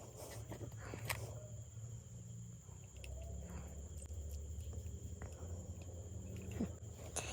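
Faint clicks and light handling of small air-rifle parts during assembly, the clearest click about a second in, over a steady low hum and a thin high-pitched whine.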